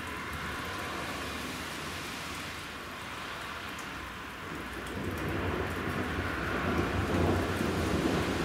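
Steady rain falling during a thunderstorm, with a low roll of thunder building from about halfway through and growing louder toward the end.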